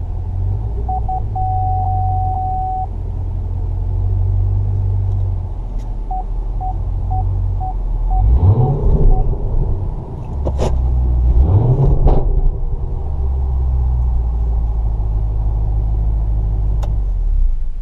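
Supercharged 6.2-litre LSA V8 of a 2012 Chevrolet Camaro ZL1 idling with a low rumble, with two quick blips of the revs about 8 and 11 seconds in. The car's chime sounds a long tone near the start and a run of short beeps about twice a second a little past halfway, and a couple of sharp clicks come around the second blip. The engine stops just before the end.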